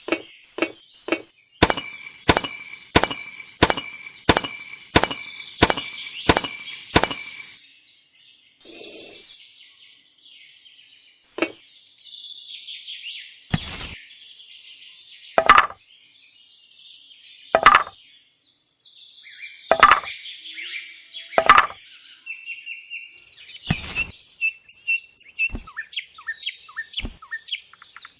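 A run of sharp, evenly spaced knocks, about one and a half a second, then a handful of heavier knocks a couple of seconds apart, with birds chirping in the background.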